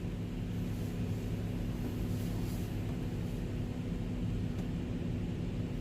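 A truck cab's heater fan blowing with a steady hum.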